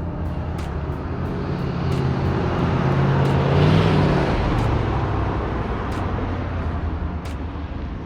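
1988 Chevrolet Blazer's 5.7-litre TBI V8 driving past, engine and tyre noise swelling to a peak about four seconds in and then fading away.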